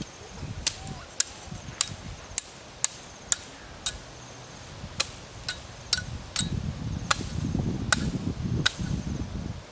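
Repeated sharp chopping strikes, one every half second to a second, with a low rustling or scraping from about six seconds in.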